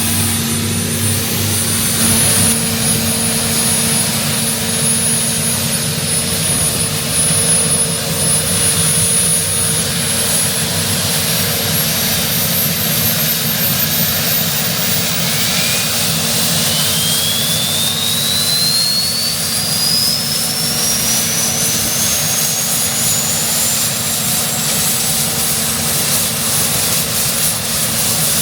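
Westland Lynx helicopter's gas-turbine engines running, with a turbine whine that climbs steadily in pitch through the second half as an engine spools up.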